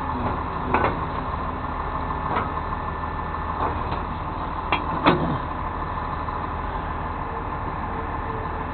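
Tow truck engine idling steadily, with a few short sharp knocks from the hookup work in the first half; the loudest comes about five seconds in.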